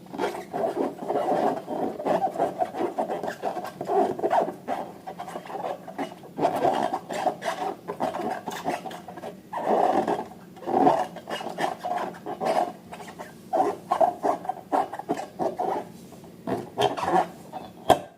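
Rubber balloons and slime handled by hand, giving a dense, irregular run of rubbing and squishing sounds.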